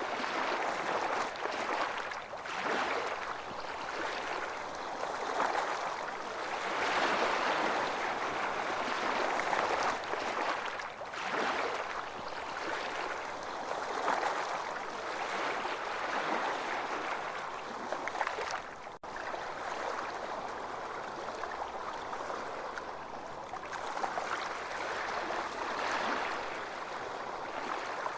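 Ocean waves washing continuously onto a beach, the surf swelling and easing every few seconds, with a brief dropout about two-thirds of the way through.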